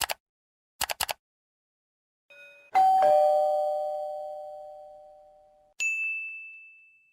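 Doorbell sound effect: a two-note ding-dong chime, the higher note and then the lower, ringing on and dying away slowly. It is preceded by a few short clicks, and a single high ding sounds near the end.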